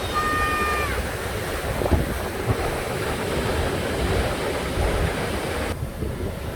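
Rough sea under a typhoon's indirect influence: surf breaking and washing in a steady wash of noise, with strong wind buffeting the microphone. A brief high tone with overtones sounds at the start and drops away about a second in.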